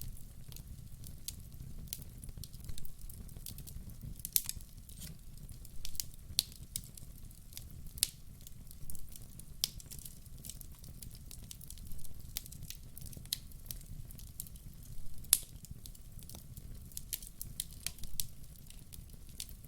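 Campfire burning, wood crackling with irregular sharp pops, a few louder snaps among them, over a steady low rumble of the flames.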